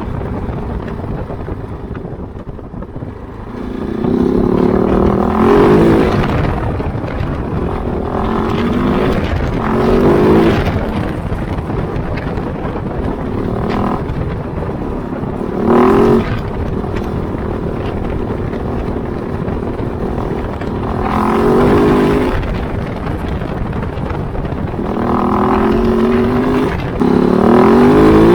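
Kove 450 Rally's single-cylinder engine under way off-road, opening up and easing off over and over. It runs low and quieter for the first few seconds, then revs climb in pitch in five or six throttle pulls, the loudest near the end.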